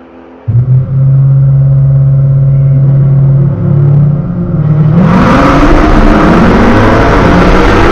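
Jeep Trackhawk's supercharged 6.2-litre V8, heard from inside the cabin through a dash camera, held at steady revs on the start line, then launched at full throttle about five seconds in, its pitch climbing as it accelerates.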